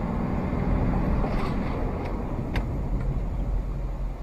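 A car's engine and road noise running steadily with a deep rumble, and one sharp click about two and a half seconds in.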